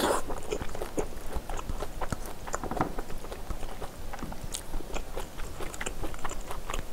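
A person chewing a mouthful of food close to the microphone, with many small wet clicks and smacks.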